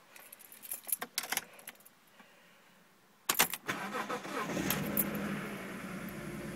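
Keys jingle and click, then about three seconds in the BMW Z4's engine is started: a brief crank, then it catches and settles into a rough idle.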